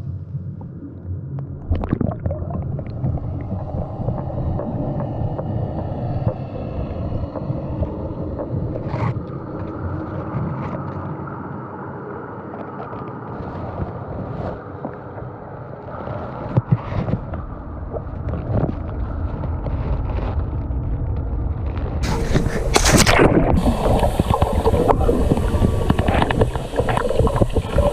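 Muffled underwater rumble and water movement with scattered knocks. About 22 s in, louder, brighter splashing and hiss take over.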